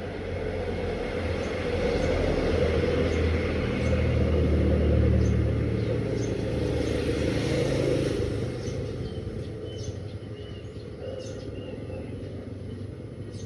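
A low motor rumble that swells over the first few seconds, peaks about five seconds in, and then fades, with faint chirps over it.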